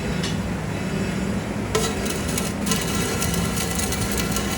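Metalworking in a repair shop: a steady low machine hum, joined about two seconds in by rapid, continuous scraping or rasping.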